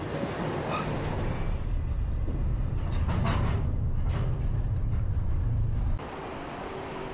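Freight train rolling by: a steady low rumble with a few metallic clanks in the middle. About six seconds in it cuts off abruptly to a quieter, steady hiss.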